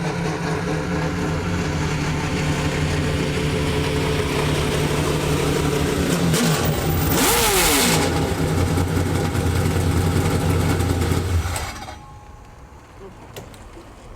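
A drift truck's engine running hard at high revs, held at a nearly steady pitch through a drift. About six to eight seconds in there is a loud rush of noise with a falling pitch as something passes close. The engine sound cuts off near the end, leaving it much quieter.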